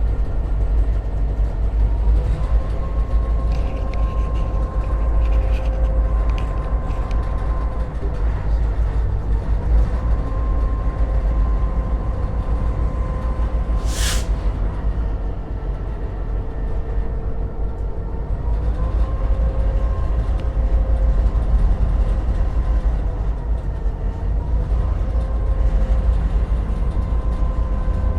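EMD GP38-2 diesel locomotive running under way, heard from inside its cab: a heavy steady rumble with a whine that shifts slightly in pitch a few times. One brief sharp sound comes about halfway through.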